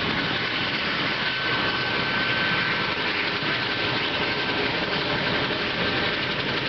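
Mi-17 helicopter's twin turboshaft engines and rotor running steadily, a dense even rush with a constant high turbine whine.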